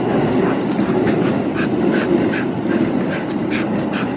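Small dogs giving short, repeated yips and whimpers, several a second at times, over a steady low rumble.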